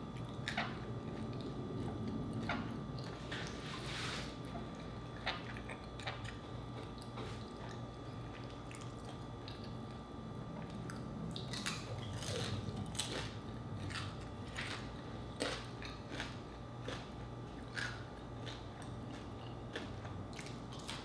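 Close-miked chewing of crispy pata, deep-fried pork knuckle: sharp crunches of the fried skin between wetter chewing, coming thickest from about eleven seconds in.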